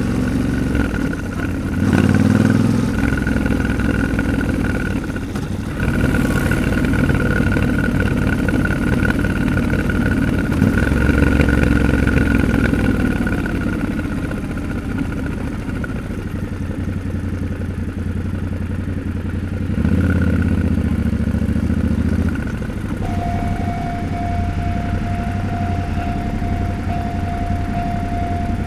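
Yamaha Ténéré 700's parallel-twin engine running while ridden, its pitch stepping up and down with throttle and gear changes a few times. About three-quarters of the way in, a steady high tone joins.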